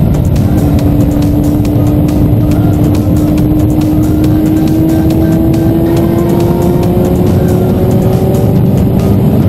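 Motorcycle engine pulling steadily under heavy wind noise, its pitch rising slowly and evenly as it accelerates.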